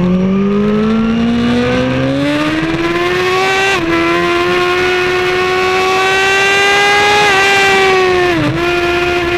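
Sport motorcycle engine running hard on a race track, its pitch climbing over the first few seconds and then held high, with brief dips about four seconds in and again near the end, over steady wind rush.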